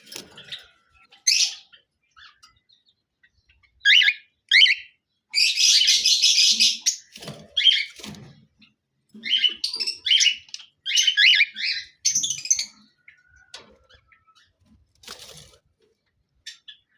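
Cockatiels chirping in short, high calls, with quick single chirps breaking into denser runs of calling.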